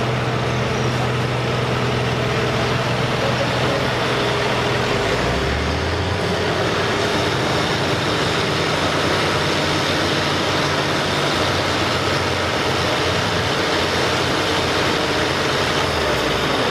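A pulling vehicle's heavy diesel engine runs loudly and steadily. Its low note rises in pitch about five seconds in and then holds.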